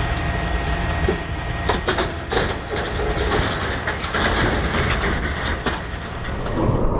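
Heavy truck running: a steady low engine rumble with road and mechanical noise, and short knocks and clatter about once a second.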